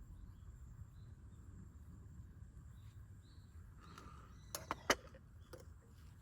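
Outdoor ambience: a steady low rumble with faint, brief bird chirps, and a quick run of three sharp clicks or knocks about four and a half seconds in, the last the loudest.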